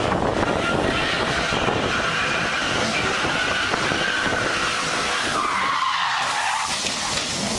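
A car skidding, its tyres squealing in one long, drawn-out squeal over loud road and engine noise; the squeal dips in pitch about two thirds of the way through, then rises again.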